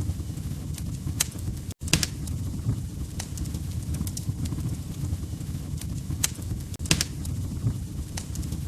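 Wood fire crackling: scattered sharp pops and snaps over a steady low rumble of burning logs, with a momentary gap in the sound just under two seconds in.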